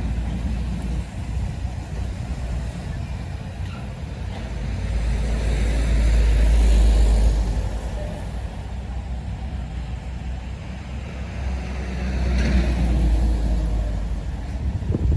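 Trucks driving past on a road: a deep engine rumble with tyre and road noise that swells twice, about six to seven seconds in and again around twelve to thirteen seconds in.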